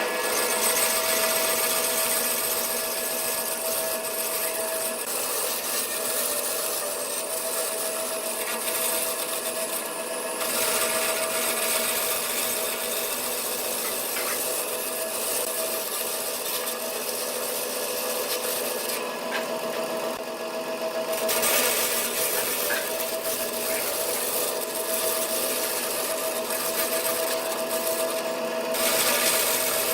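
Wood lathe running with a steady motor hum while a turning tool cuts the spinning wood, giving a scraping, rasping cutting noise. The cutting breaks off a few times for a second or two as the tool is lifted away, then starts again.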